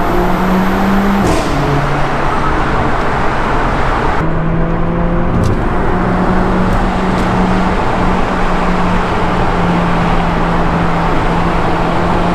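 Mercedes-AMG A45's 2.0-litre turbocharged four-cylinder engine, its exhaust resonator removed, pulling in a low gear through a tunnel. The engine note steps in pitch a few times and runs over heavy road noise.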